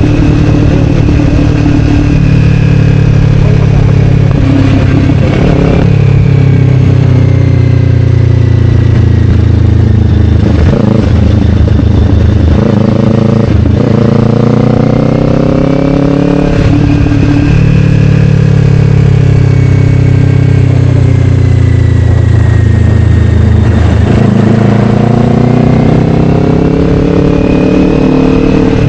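Kawasaki Ninja 500's parallel-twin engine running through an Akrapovic slip-on exhaust while riding, its pitch climbing under acceleration, dropping at gear changes and falling away as it slows, then climbing again near the end.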